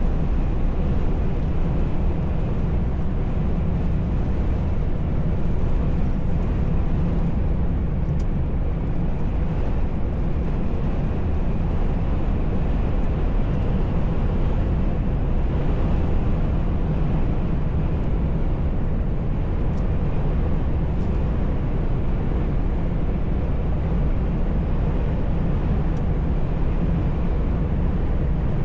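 Heavy truck driving at a steady speed: an even, low drone of engine and road noise.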